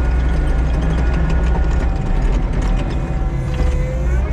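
Diesel engine of a piece of earthmoving equipment running steadily under load, with a stream of light mechanical clicking and rattling.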